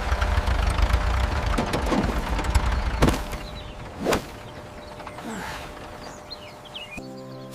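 A loud, low rumbling noise for about three seconds, broken by two sharp sweeping hits about three and four seconds in, then a quieter stretch with faint high chirps.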